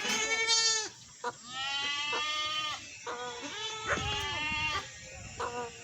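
Sheep bleating: three long, wavering bleats one after another, then a couple of short ones near the end.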